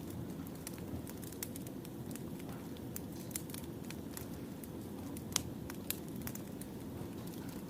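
Burning firewood crackling: a steady low rumble of the fire with scattered sharp pops, the loudest about five and a half seconds in.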